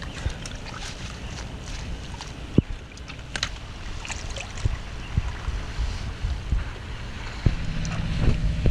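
Wind buffeting the microphone as a steady low rumble, with scattered sharp clicks and knocks. Near the end a low, steady engine hum comes in.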